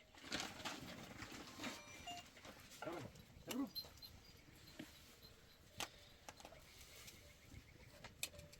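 Faint bleating of livestock: a couple of short calls about three seconds in, with scattered clicks and knocks.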